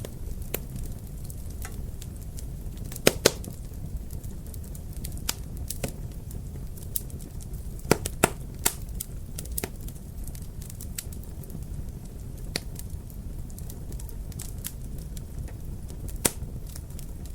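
Wood fire crackling: a steady low rumble of flames with scattered sharp pops and snaps, the loudest pops about three seconds in, around eight seconds in and near the end.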